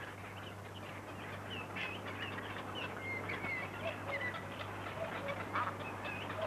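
Birds calling: many short chirps and whistled glides, with a few lower calls, over a steady low hum.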